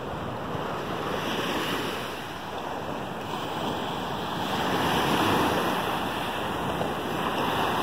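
Gulf of Mexico surf washing onto the beach, a steady rush that swells and eases over several seconds, with wind on the microphone.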